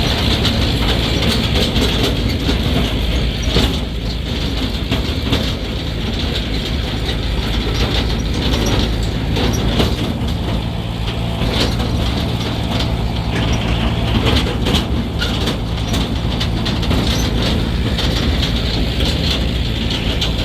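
A motor running steadily, with many irregular clicks and rattles over it.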